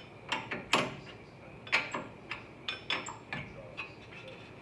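Metal parts and tools clinking and knocking as they are handled: about ten sharp, irregular clicks, some with a brief metallic ring, thinning out near the end.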